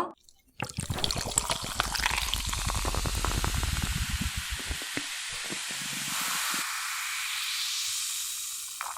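Close-up crackling of crispy seasoned fried chicken coating: a dense run of fine crackles for about five seconds, turning into a steadier hiss for the last few seconds.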